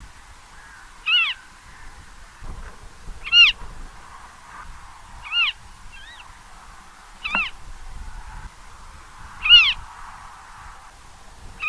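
A bird of prey calling: a short whistled note that rises and falls in pitch, repeated about every two seconds, six times in all.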